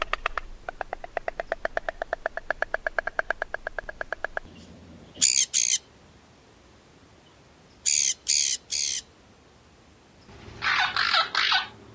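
Bird calls. A fast rattling trill of about ten notes a second, then short high-pitched calls in a pair and a group of three, then a quick run of four harsher squawks near the end.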